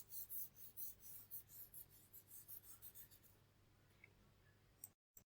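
Faint colouring strokes on paper, a quick back-and-forth scratching about four times a second as light blue is shaded in, stopping about three seconds in.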